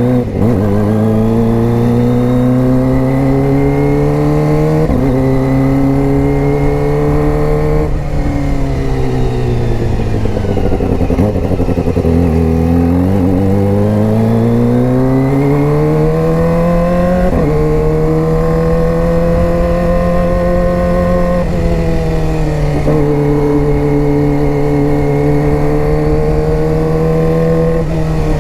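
Kawasaki ZX-25R's 250 cc inline-four running through a GP Tech Zeus Short aftermarket exhaust, held at high revs. Its pitch climbs and falls several times, with sudden breaks where the revs change, and dips lowest about twelve seconds in.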